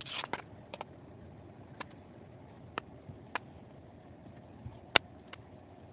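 Irregular sharp taps and clicks, a cluster at the start and a loudest one about five seconds in, over a faint steady background.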